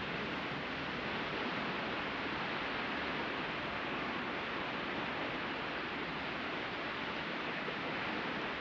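Sea surf washing on a beach: a steady, even hiss with no single wave break standing out.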